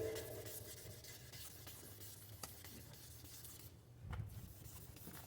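Faint rubbing of sandpaper worked by hand over a plastic headlight lens, with a soft bump about four seconds in.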